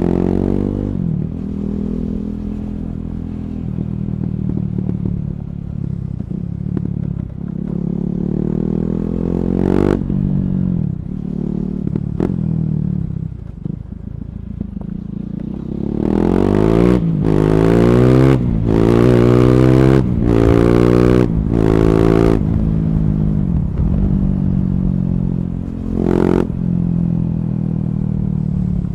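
KTM Duke 390's single-cylinder engine running through an Akrapovic slip-on exhaust with the catalytic converter removed. The bike is ridden at a steady pace, then pulled hard about halfway through, the pitch climbing in a quick run of steps with sharp noisy bursts between them.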